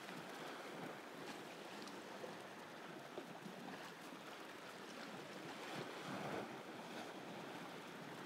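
Steady wash of the sea against a rocky shore, with wind on the microphone and a few faint clicks.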